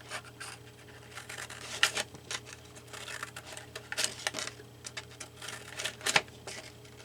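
Multi-blade herb scissors snipping through paper: a run of irregular sharp snips, the loudest about two seconds in and again near the end.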